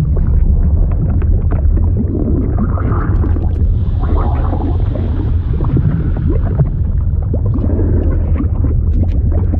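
Liquid sound effect: a steady deep rumble with many short, irregular pops and shifting swells over it.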